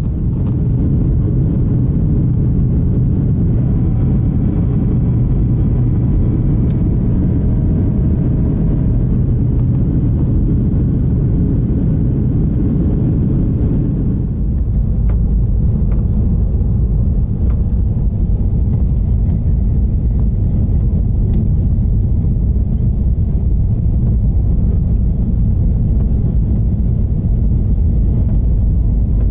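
Airliner cabin noise on the landing approach: a loud, steady low rumble of engines and airflow. Faint whining tones ride over it for the first few seconds, and about halfway through the higher part of the rumble drops away, leaving a deeper rumble.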